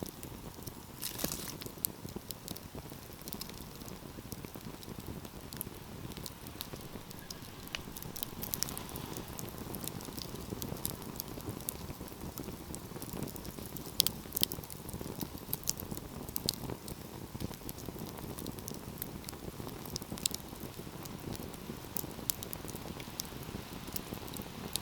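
Wood fire burning in a fireplace: a steady low rush of flame with frequent sharp crackles and pops, and a couple of louder pops a little past halfway.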